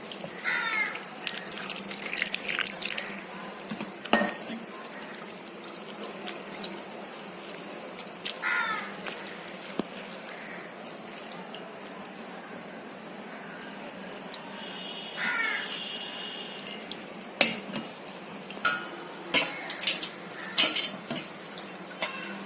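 Water splashing as freshly curdled paneer (chenna) is rinsed with cold water in a cloth-lined strainer and squeezed out, with scattered clinks and knocks of kitchen vessels.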